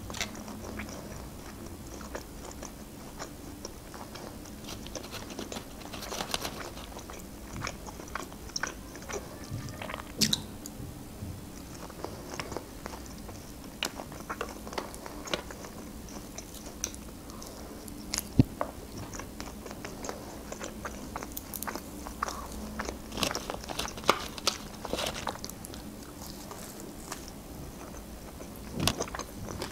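Close-miked chewing and biting of grilled meat eaten by hand, with scattered sharp clicks; the loudest come about 10, 18, 24 and 29 seconds in.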